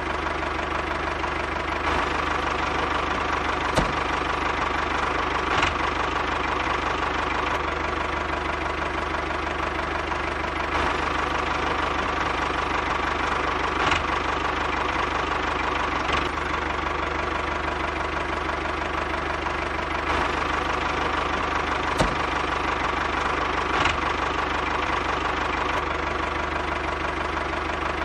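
A small motor running steadily, with a sharp click every couple of seconds.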